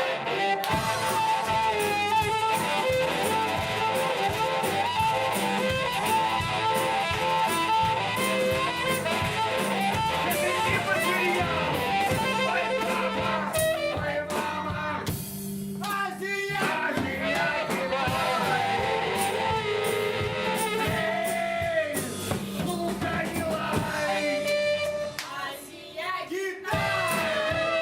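A live band playing a guitar-led blues-rock song, with a melody line bending in pitch over the band and two short lulls in the playing.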